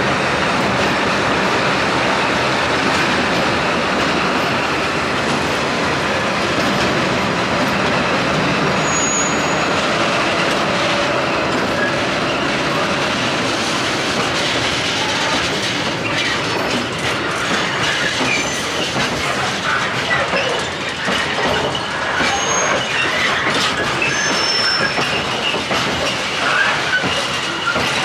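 Freight train wagons rolling past: a steady loud rumble of steel wheels on rail, with clatter over rail joints that turns more distinctly knocking in the later part and several brief high wheel squeals.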